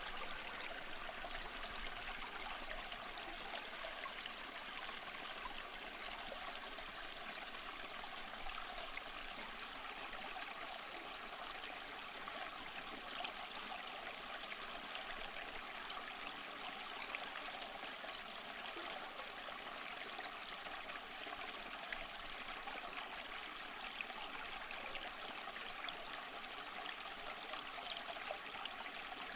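Waterfall water falling and splashing in a steady, unbroken rush, mostly high and hissy with little deep rumble, flecked with small splashes and trickles.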